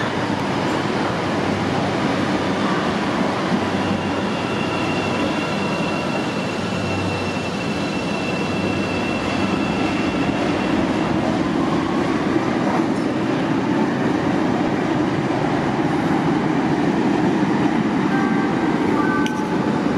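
Chicago 'L' rapid-transit train running on the track, a steady loud rumble of wheels and rails. A thin, high wheel squeal holds for several seconds in the middle.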